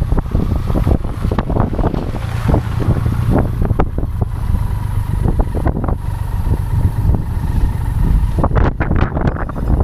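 Motorcycle riding at speed: wind buffeting the action camera's microphone in a loud low rumble with frequent crackling gusts, over the running engine.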